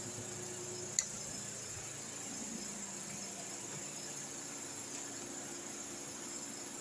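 Ventisol wall fan running steadily, a smooth even airy whoosh with a faint low hum under it. A single sharp click about a second in.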